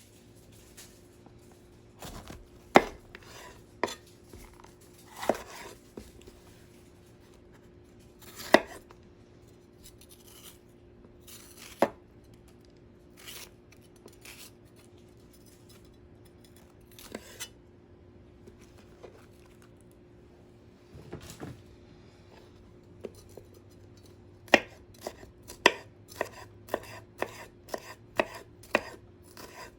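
Knife chopping on a cutting board: scattered single chops with pauses, then a quicker run of chops about two a second near the end.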